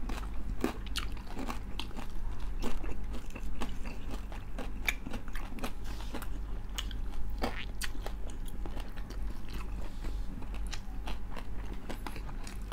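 Close-up biting and chewing of crispy pata, the crackling skin of deep-fried pork knuckle, heard as irregular sharp crunches.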